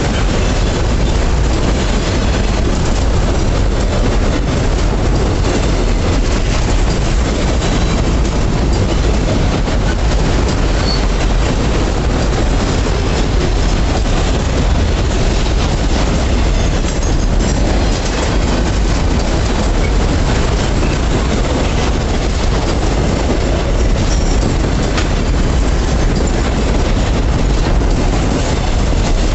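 Freight train's wagons rolling past close by: a steady, loud rumble of wheels on rail with rapid clickety-clack.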